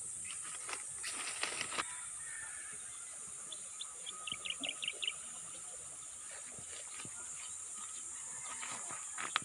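A bird calling once: a quick run of about eight short, high notes about four seconds in, over a steady high insect drone. A few light knocks and crunches come at the start and just before the end.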